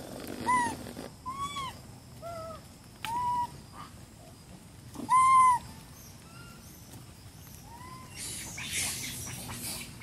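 A series of short, arched, whistle-like animal calls, about eight in ten seconds, each rising and falling in pitch; the loudest comes about halfway through. A hissing rustle runs near the end.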